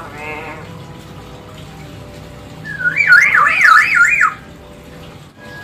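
Hill myna giving a loud warbling whistle, its pitch swinging up and down about four times a second for over a second, halfway through. A short call comes just before it, right at the start.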